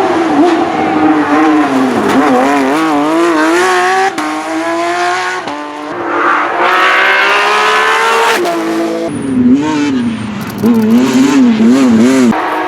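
Porsche 911 GT3 rally car's flat-six engine revving hard on a rally stage, its pitch rapidly rising and falling with throttle and gear changes. The sound breaks off and picks up again abruptly a few times.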